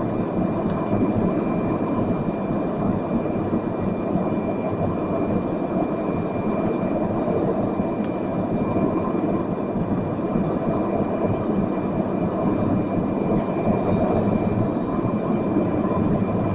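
Jet airliner's engines and airflow heard from inside the passenger cabin: a steady rush of noise with a thin, even whine over it.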